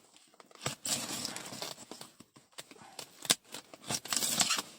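A cardboard parcel holding a foam box being handled and shifted: rustling cardboard with scattered knocks and clicks, one sharp knock a little past halfway.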